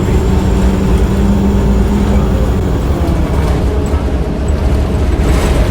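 Interior sound of a 2007 Orion VII transit bus under way: a steady low rumble of drivetrain and road, with the HVAC system running. A humming tone stands out in the first half, and a short hiss comes near the end.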